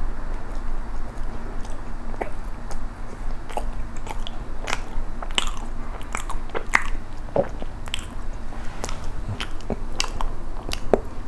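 Close-miked chewing of soft bread filled with bean-powder cream and red bean paste, with many short wet mouth clicks scattered through.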